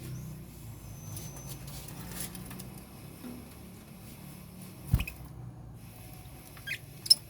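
Lovebirds giving two short, high chirps near the end, with a single sharp thump about five seconds in, over a low steady background noise.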